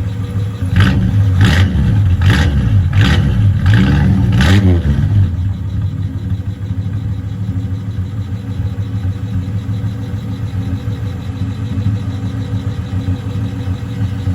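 1962 Ford Fairlane's inline 170 six-cylinder engine running through a custom exhaust just after a cold start. The throttle is blipped about six times in the first five seconds, then the engine settles into a steady idle.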